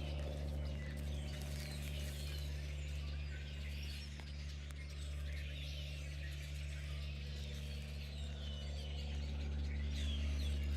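Birds chirping, short calls scattered throughout, over a steady low drone of an airplane overhead.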